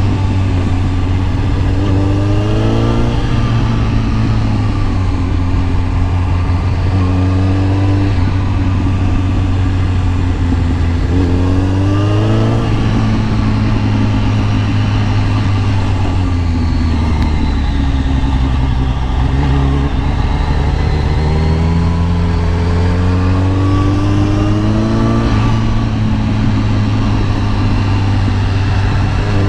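Kawasaki ZX10R's inline-four engine under way, heard from the rider's position, accelerating several times with the pitch climbing and then dropping back at each gear change or roll-off, between stretches of steadier running.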